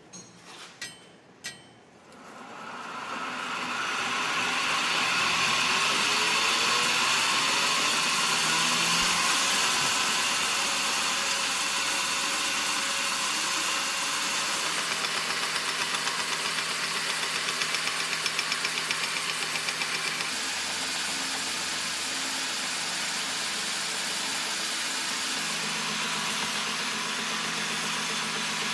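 A few clicks, then an electric grinder spins up over about two seconds and runs steadily with a loud hiss while grinding a carbon-steel knife blade.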